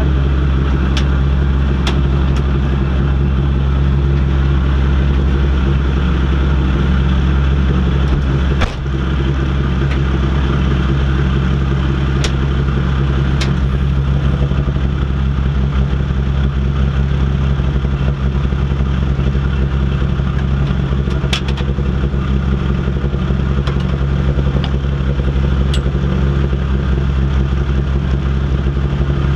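Rally car engine idling steadily in neutral, heard from inside the stripped cabin. A few sharp clicks and knocks from inside the cabin sound over it now and then.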